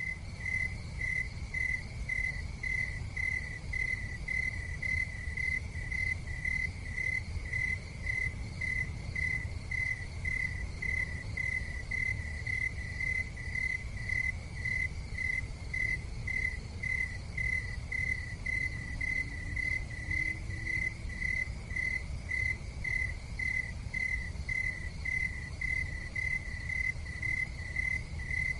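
Cricket chirping steadily in an even rhythm, about two chirps a second, over a low steady rumble.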